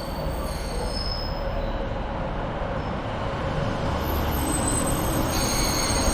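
A train moving along the platform, its wheels squealing high on the rails over a steady rumble, with a fresh set of squeal tones joining about four to five seconds in as it grows a little louder.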